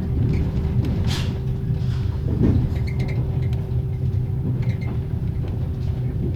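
Passenger railway carriage at low speed, heard from inside a closed compartment: a steady low rumble with the steady whine of the carriage's axle-driven generator. Occasional knocks and creaks come from the wheels and carriage body.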